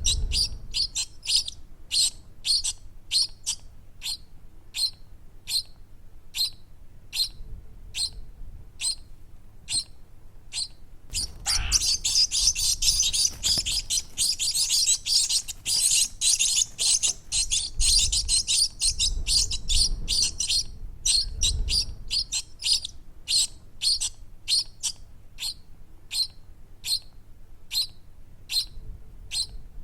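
Baby birds chirping: short high chirps repeat about twice a second, then thicken into a dense, continuous run of rapid chirping from about a third of the way in until about two thirds, before going back to spaced chirps.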